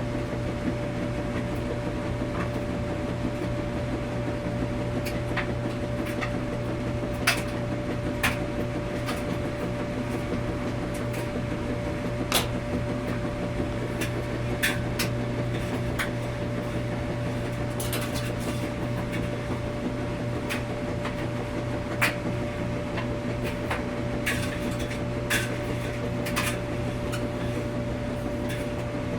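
Washing machine running in a laundromat: a steady mechanical hum with a constant mid-pitched tone, and irregular sharp clicks and taps every couple of seconds.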